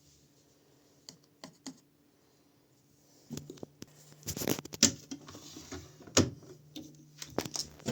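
Irregular clicks and knocks, sparse at first and then a denser, louder run from about three seconds in, like hands working a washing machine's door and controls, over a low steady machine hum.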